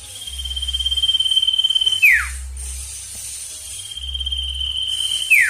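Sirtu bird in full breeding condition singing hard: a long even trill held at one high pitch for well over a second, ending in a quick falling slur, given twice.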